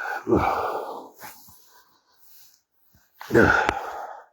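A person's voice making two breathy, drawn-out sounds that fall in pitch: one at the start, and another about three seconds in.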